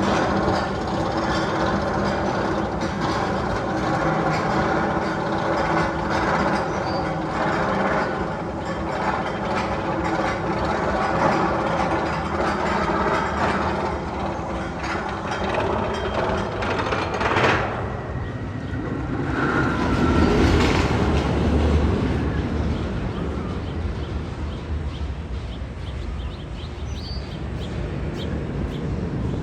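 Magnum XL-200 steel roller coaster train rolling along its track with a steady, loud rumble. A sharp clack comes about two-thirds of the way through, followed by a swell of deep rumble.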